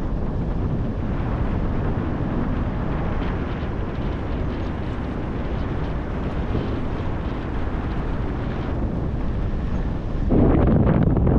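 Wind rushing and buffeting over the microphone in paragliding flight, growing louder about ten seconds in.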